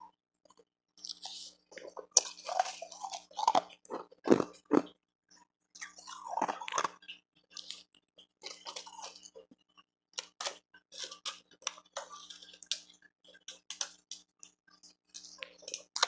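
Close-miked crunching and chewing of refrozen powdery ice and hard ice pieces: irregular bites and crunches in bursts with short pauses, loudest a few seconds in.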